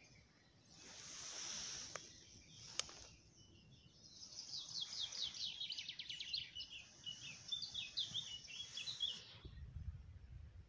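A songbird singing a long, fast song of many short chirping notes for about five seconds, after a soft hiss and a single sharp click. Near the end a low rumble takes over.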